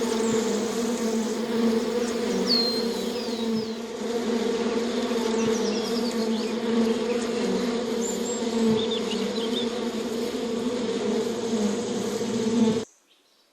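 Bees buzzing in a steady, unbroken drone, with birds chirping now and then in the background. The buzzing cuts off suddenly near the end.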